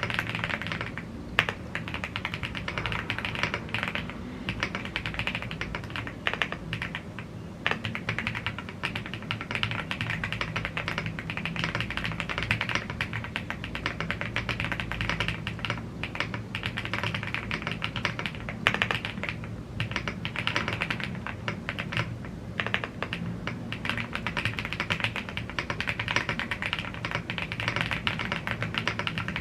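Continuous fast typing on a YUNZII AL75 gasket-mounted aluminium 75% mechanical keyboard fitted with Blue Grey tactile switches and double-shot PBT Cherry-profile keycaps: dense, even key clicks with a few brief pauses.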